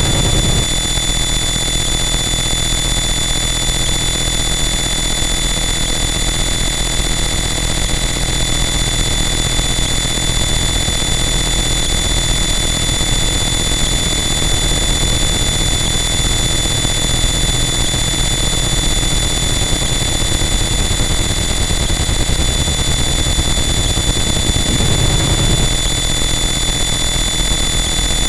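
Harsh noise wall: a loud, unchanging wall of dense static and low rumble, with steady high-pitched tones running through it.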